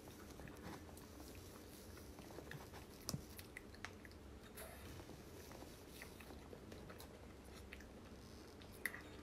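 Close-miked mouth sounds of someone eating cake: soft biting and chewing with small wet clicks. A few sharper clicks stand out about three seconds in and again near the end.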